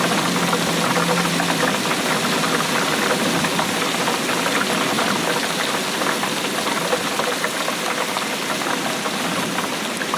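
Steady heavy rainfall, a dense, crackling patter of drops.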